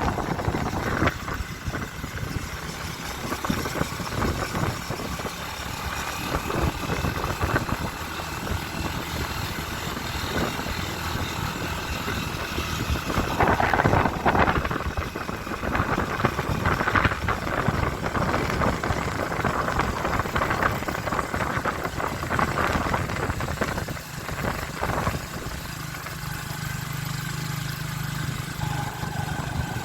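Motorcycle engine running steadily, with a steadier low hum setting in over the last few seconds.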